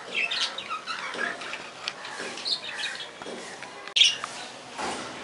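Budgerigars chirping and squawking in a string of short, busy calls, with one louder, harsher squawk about four seconds in.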